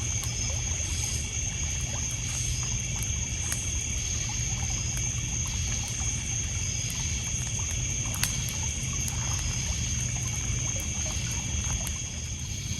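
Night ambience by a campfire on a lakeshore: water lapping and trickling on a pebble beach, a steady chorus of crickets and other insects, and the fire's light crackles, with one sharper pop about eight seconds in.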